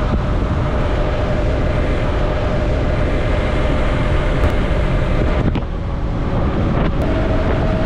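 Yamaha MT-03 motorcycle cruising on the highway, its engine running at a steady pitch that rises slightly near the end, under heavy wind noise on the bike-mounted camera's microphone.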